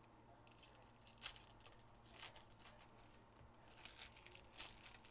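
Faint crinkling and tearing of trading-card pack wrappers being opened, in several short bursts.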